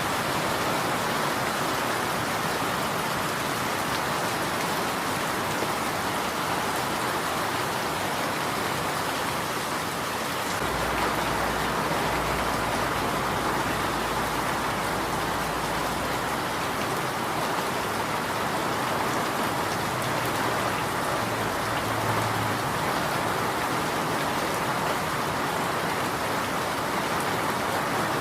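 Steady, dense rainfall. A low rumble rises under it for several seconds about halfway through.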